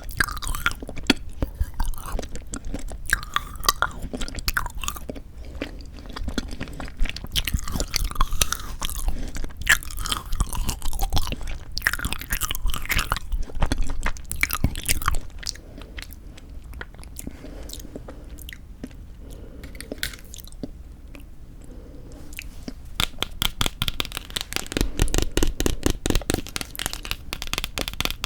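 Close-miked biting and chewing of frozen sweet red bean jelly (yanggaeng), with crunchy, crackling bites into the icy jelly. There is a softer stretch past the middle, then a busier run of quick clicks near the end.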